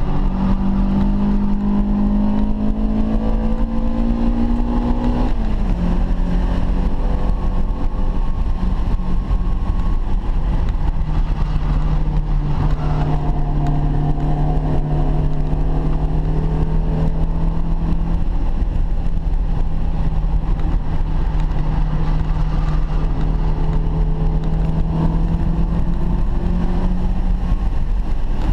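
BMW E30 M3's four-cylinder S14 engine heard from inside the cabin, rising in pitch as it pulls through a gear, then dropping sharply at an upshift about five seconds in. For most of the rest it holds a fairly steady drone, under constant road and wind noise.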